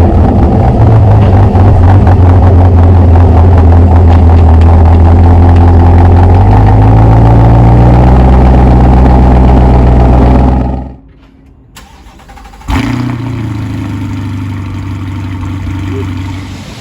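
C8 Corvette's LT2 V8 running loud and steady at a fast idle through its exhaust. The note shifts slightly partway through, then cuts off abruptly. After a short gap the engine is heard again, noticeably quieter and steady.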